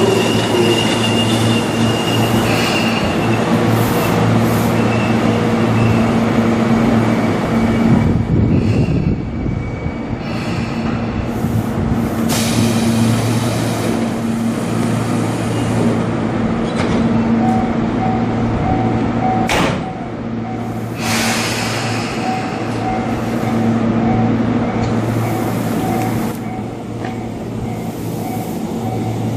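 Electric commuter train running with a steady hum, broken by a few short sharp bursts: one around 12 seconds in and two close together around 20 seconds in. From a little past halfway a faint repeating tone sounds.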